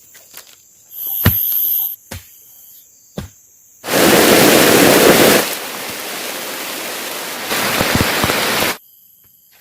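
Heavy rain pouring down. It starts suddenly about four seconds in, eases a little in the middle, then cuts off abruptly near the end. Before the rain there are a few sharp clicks and a brief, loud high-pitched tone.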